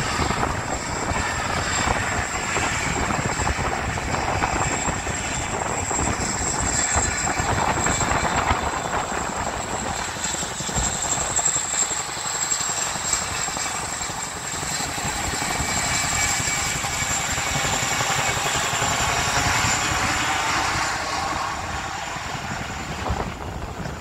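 Military helicopter's turbine and rotor noise, a steady rushing din with a thin high whine over it, swelling and easing in waves and dropping off near the end.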